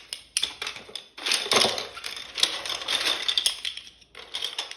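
Hard plastic GraviTrax construction pieces clicking and clattering against each other as a handful is rummaged through and picked out, with a dense burst of rattling about a second in.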